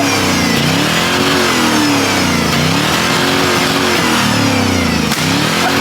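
Diesel pickup truck engine revved hard over and over, its pitch climbing and dropping about every second and a half.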